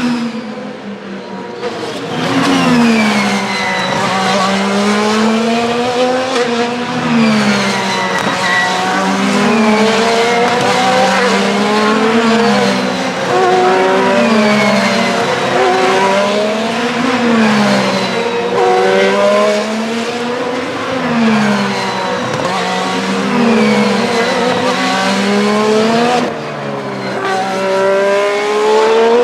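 IndyCar race cars' twin-turbocharged V6 engines running hard as a stream of cars passes one after another, several at once. The pitch rises and falls again and again, every couple of seconds, through the whole stretch.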